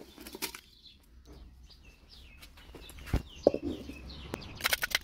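Small birds chirping in a run of short, quick, descending calls. Two sharp knocks come a little after three seconds in, and noisy crackling starts near the end.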